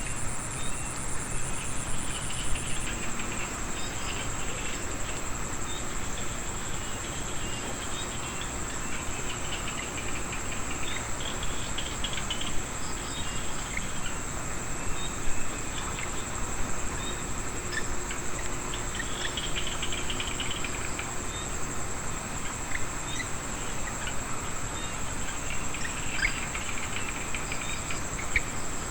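Chorus of insects and small frogs in a wet rice field after rain: a steady high insect drone, with a second high whine that stops about three seconds in, and many short chirps and calls scattered through it.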